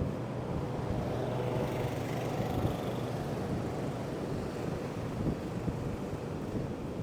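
Strong wind buffeting the microphone over the steady rush of heavy ocean surf breaking on the beach.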